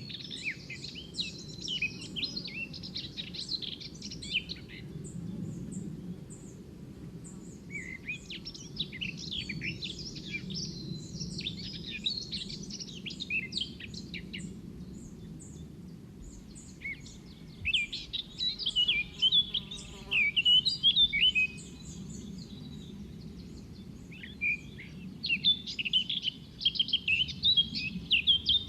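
Birds singing and chirping in bouts of several seconds each, separated by short pauses, over a steady low background rumble.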